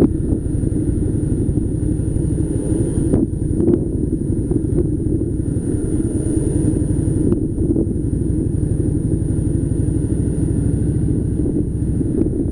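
Harley-Davidson Softail Slim's V-twin engine running steadily under way, with its low, uneven pulse. A few short knocks come a little after three seconds and again around seven and a half seconds.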